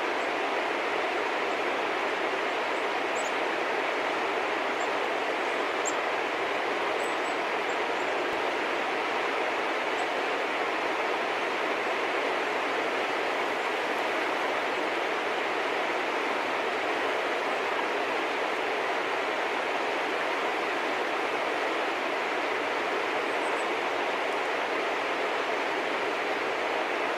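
A steady, even rushing noise that doesn't change, with a few faint, very short high chirps scattered through it.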